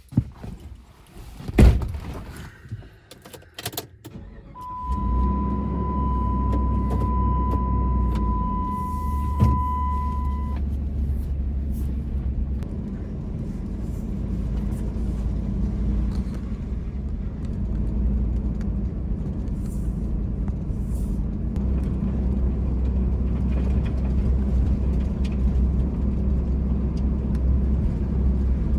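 Pickup truck heard from inside the cab: a few clicks and knocks, then the engine starts about four and a half seconds in and the truck drives on with a steady low engine and road rumble. A steady warning chime sounds for about six seconds after the start.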